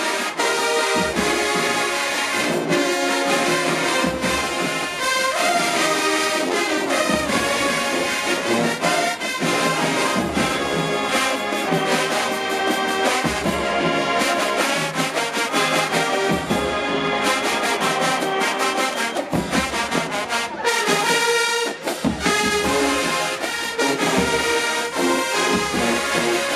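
HBCU show-style marching band playing loudly: a full brass section of trumpets and trombones with drums beating a steady rhythm.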